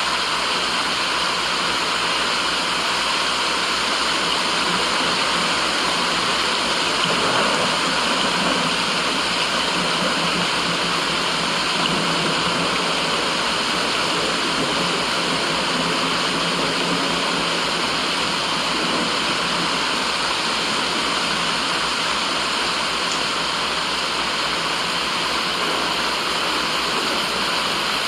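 Steady, unbroken white-noise rushing sound, even in level throughout, with the character of running or falling water and most of its weight in the middle and upper range.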